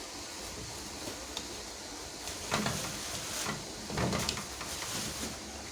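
Cookware being handled: a few short clattering knocks about two and a half and four seconds in, over a steady hiss.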